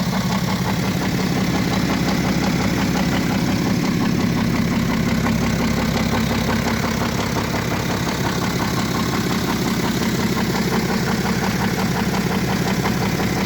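BMW 535d GT's twin-turbo straight-six diesel idling steadily with a rapid clattering rattle from inside the engine, the sign of internal engine damage.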